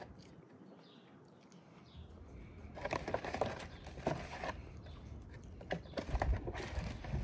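A person biting and chewing fried chicken, with clusters of short wet clicks and crunches about three, four and six seconds in.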